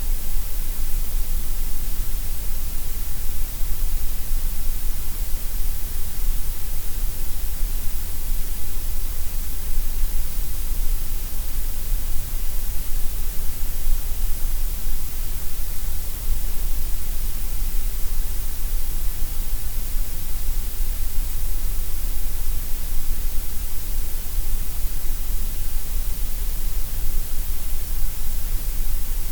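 Gray noise: a steady, even hiss across all pitches, shaped louder in the deep lows and the highs and softer in the middle, with no change.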